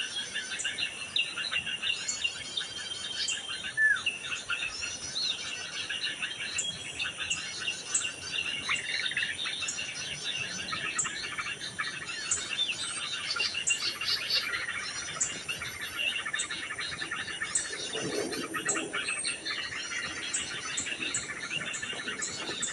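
Many small birds chirping and twittering over a steady background of insects, with short calls repeating throughout.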